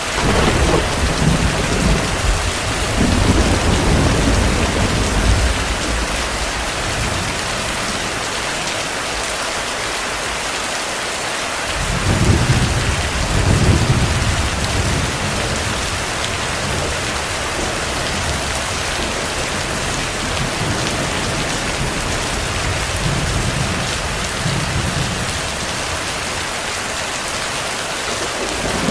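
Steady heavy rain with deep rolls of distant thunder: one rumbling through the first several seconds, and another about twelve seconds in.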